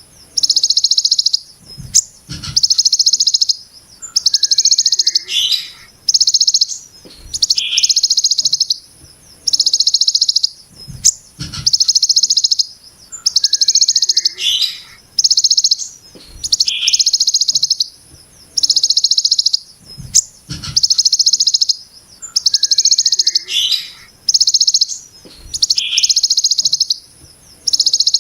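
Ciblek gunung giving its harsh, buzzy 'brem' call over and over: rasping bursts of about a second each, roughly one every second and a half, with short faint chirps between them.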